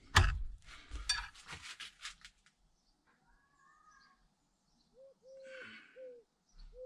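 A sharp metal clank and a second or so of light metallic clicks and rattles from hand tools working seized bolts on a brake caliper. From about five seconds in a pigeon coos, a run of short hoots repeating less than a second apart.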